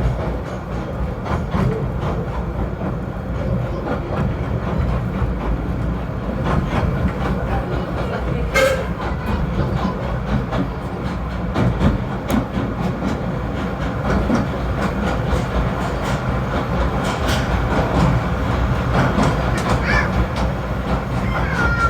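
Snowdon Mountain Railway rack train running: a steady low rumble with frequent clicks and knocks from the wheels and track, and one sharper knock about eight seconds in.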